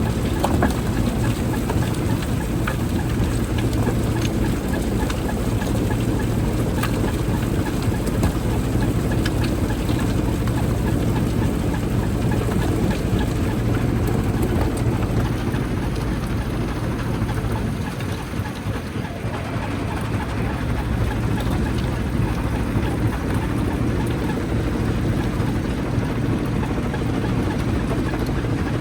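Jaw crusher running with a steady low drone, with scattered sharp cracks and knocks of rock being broken. The sound dips briefly about two-thirds of the way through.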